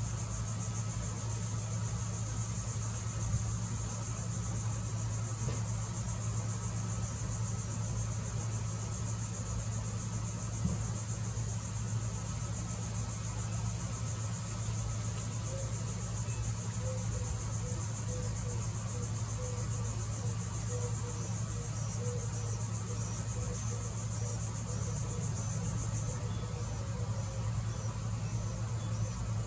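Steady high-pitched drone of an insect chorus, over a constant low hum.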